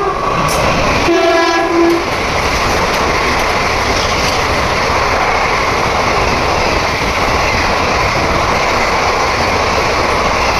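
Express train on Indian Railways, hauled by an electric locomotive, running past the platform. Its horn gives a short toot right at the start and then a blast of about a second. After that comes the steady, loud rush of the coaches and wheels going by.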